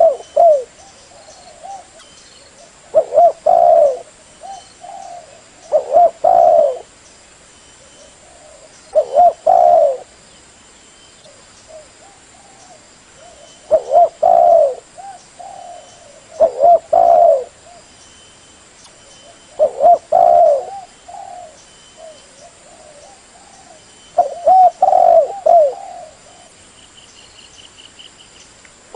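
Spotted dove cooing: a short phrase of several low, pitched coos, repeated every few seconds.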